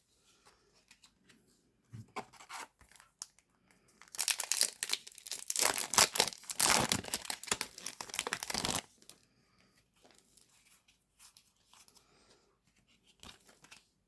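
Foil Yu-Gi-Oh! booster pack wrapper being torn open and crinkled: a dense crackling tearing sound lasting about five seconds in the middle, with fainter rustles of handling before and after.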